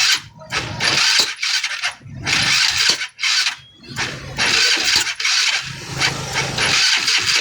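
Yamaha Mio Sporty scooter engine being cranked in a series of short start attempts with brief pauses between them: the engine is hard to start.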